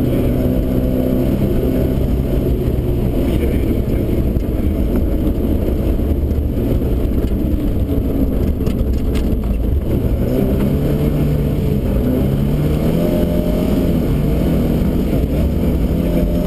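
Rally car engine at full effort, heard from inside the cabin and muffled, its pitch climbing and dropping as the driver accelerates and shifts gear.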